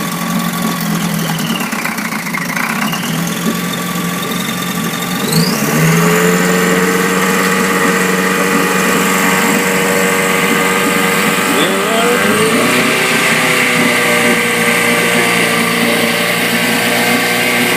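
15 HP Mercury outboard motor running in a test bucket of water, idling and then throttled up about five and a half seconds in to a higher steady speed, with another small change in speed near twelve seconds. It runs evenly, the sound of a freshly serviced motor that has started and is running well.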